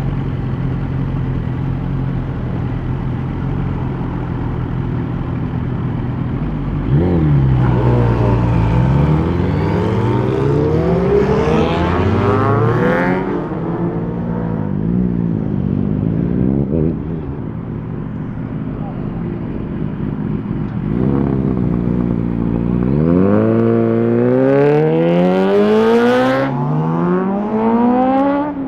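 Superbike engines idling steadily, then revved up and down several times. Near the end one pulls away hard, its pitch climbing in steps through the gears.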